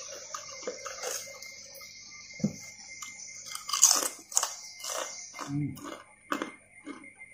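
Close-up crunchy chewing: a person biting into and chewing a crisp cracker, with a run of loud crunches about four seconds in.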